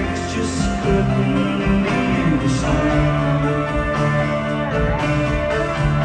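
Live rock band playing loud and continuous, with electric guitar lines over bass and drums.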